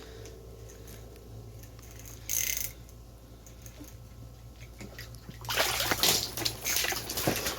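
Pike thrashing and splashing water in an ice-fishing hole as it is pulled up, starting about five and a half seconds in, after a short hiss a couple of seconds in, over a steady low hum.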